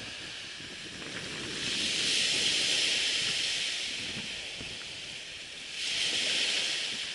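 Waves washing onto a sandy beach: a hiss of surf that swells and fades twice, with a rough low rumble underneath.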